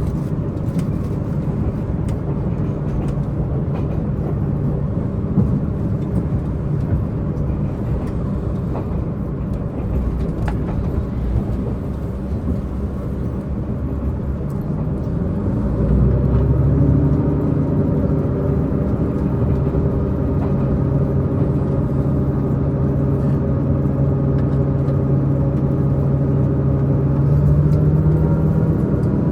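Diesel multiple-unit express train running, its diesel engine note steady over the wheel and rail noise. About halfway through the engine note steps up and grows louder as the engine takes more power, then holds, rising slightly near the end.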